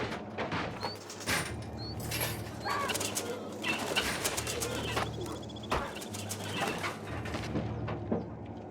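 Birds flapping their wings and calling, with many short knocks and clicks, over a steady low hum.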